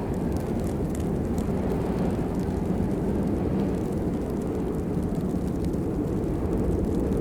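Steady rainfall: a dense, even low rush with faint scattered ticks of drops landing.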